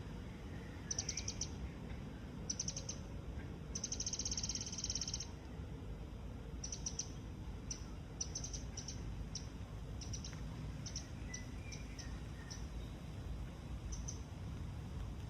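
Small bird chirping in short high trills: three trill bursts in the first five seconds, the longest about a second, then scattered brief chirps. A steady low rumble runs underneath.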